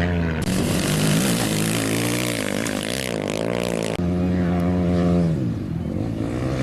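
Off-road rally motorcycle engine revving hard, its pitch repeatedly rising and falling through the gears, with hiss from wind and gravel over it. The sound changes abruptly about half a second in and again about four seconds in.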